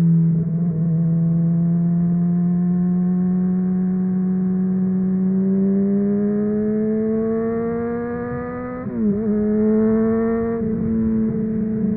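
Honda inline-four motorcycle engine running under way, its note climbing slowly as the revs build. About nine seconds in the note briefly stutters and dips, then settles and keeps pulling, with a smaller wobble a couple of seconds later.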